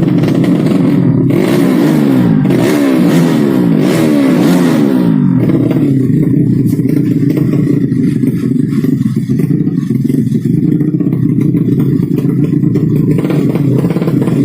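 Racing 200cc underbone motorcycle engines running hard, their pitch falling in several glides over the first few seconds, then settling into a steadier, lower drone.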